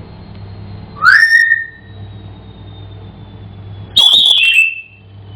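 African grey parrot whistling twice: a rising whistle about a second in, then a harsher whistle sliding down in pitch about four seconds in.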